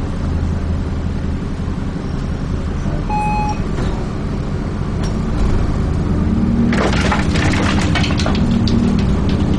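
Interior of a Dennis Trident 2 double-decker bus on the move: the diesel engine drones steadily, a short electronic beep sounds about three seconds in, and from about seven seconds the body and fittings rattle loudly as the engine note rises.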